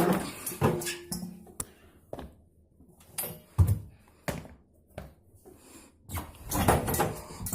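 A series of irregular knocks and thuds with quiet gaps between them, the sharpest about three and a half seconds in, and a denser cluster of knocks near the end.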